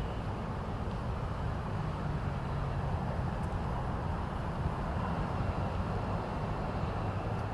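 Steady low rumble of city background noise, without distinct events.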